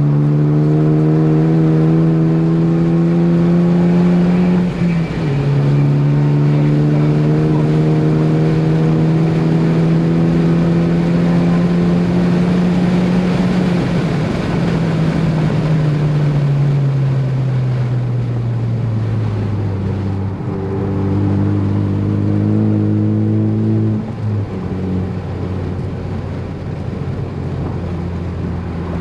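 Ford Focus ST's turbocharged four-cylinder engine under load, the revs climbing, dropping sharply at an upshift about five seconds in and climbing again. From about halfway the revs fall steadily as the car slows, settling lower with another step down near the end.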